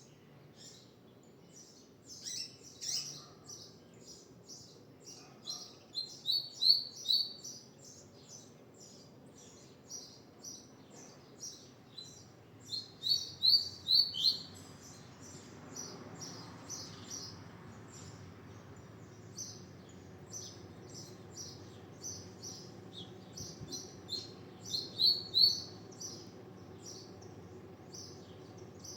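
Male coleiro (double-collared seedeater) singing: a stream of short, high chips, broken three times by a louder run of rapid notes that slide downward, the 'papa-capim' song style.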